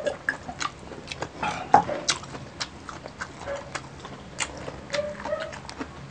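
Close-miked eating: crunching and chewing of crispy deep-fried pork knuckle, with irregular crackles and wet mouth clicks, and a short hum about five seconds in.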